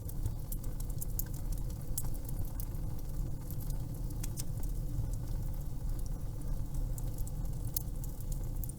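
Fireplace crackling: irregular sharp pops and snaps over a low, steady rumble of the fire.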